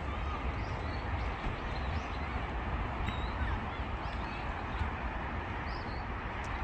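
Small birds chirping briefly several times over a steady low rumble.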